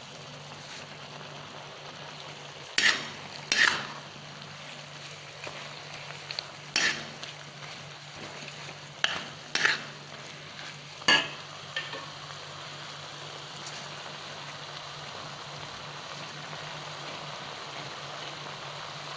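Jackfruit and shrimp in spice paste sizzling in a wok, with a metal spatula knocking and scraping against the pan about six times over the first dozen seconds. A low steady hum runs underneath.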